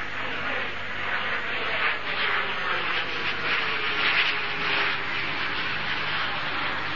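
Messerschmitt Me 262 jet flying past: a loud rushing jet noise that swells to its loudest about four seconds in, with a tone sliding down in pitch as it goes by.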